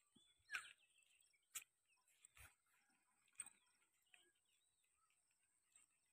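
Faint birds chirping here and there over near silence, with about four brief soft knocks in the first half.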